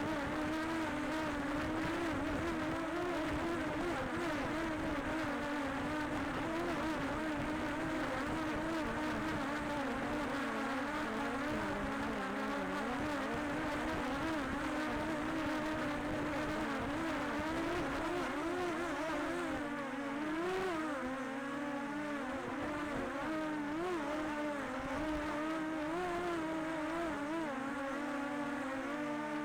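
Multirotor camera drone's propellers humming steadily at hover, the pitch wavering slightly.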